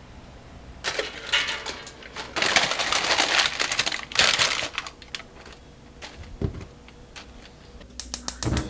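Kitchen preparation sounds: several seconds of noisy rustling and scraping, then a quieter stretch, then a quick run of evenly spaced taps near the end.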